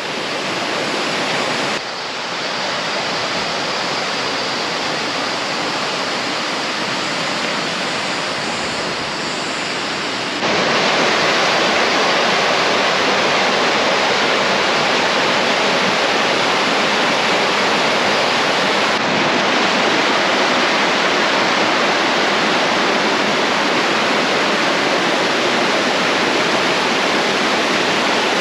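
Creek water rushing and cascading over rocks and a waterfall, a steady rush of white water that steps louder about ten seconds in.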